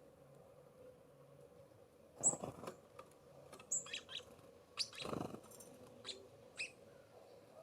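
Small songbirds at a feeder giving short, high chirps, scattered through the middle of the stretch, with two brief rustles among them.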